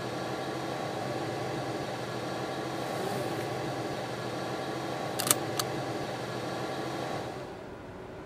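Car engine idling steadily, heard from inside the cabin, with two sharp clicks a fraction of a second apart about five seconds in. The hum drops noticeably in level about seven seconds in.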